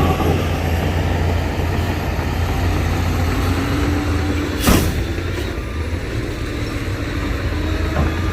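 Heavy diesel earthmoving machinery running with a steady low rumble, with a short sharp hiss about halfway through, like an air-brake release.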